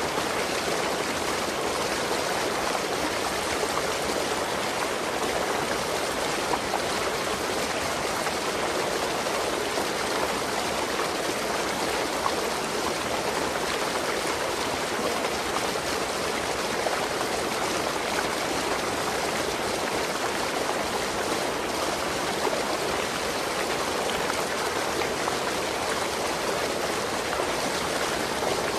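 Waterfall: water rushing and splashing steadily without a break.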